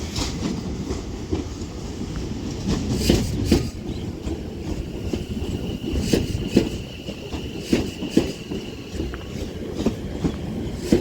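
West Midlands Railway class 730 electric multiple unit rolling into the platform, its wheels clicking over rail joints in pairs over a steady low rumble. A steady high squeal comes in about halfway through and fades a few seconds later.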